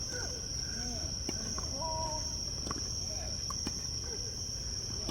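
Insects chirring in a steady, high-pitched drone, with a few faint sharp knocks and faint voices in the background.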